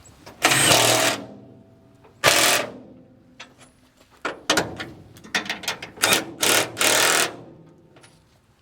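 Impact wrench run in bursts, tightening the bolts that hold the truck box down to the frame: a long burst about half a second in, another about two seconds in, then a string of shorter bursts.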